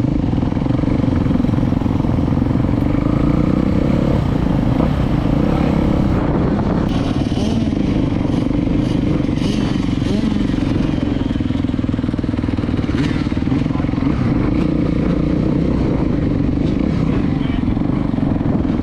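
Dirt bike engine running steadily at low revs, with no rise or fall in pitch.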